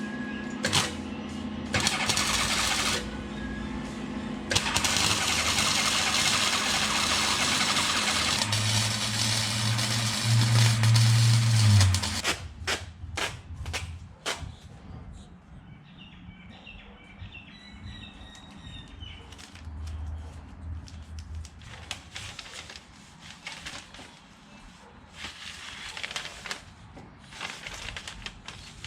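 Car engine running loudly, revving up about eight seconds in and cutting off sharply near twelve seconds. Scattered clicks and knocks follow.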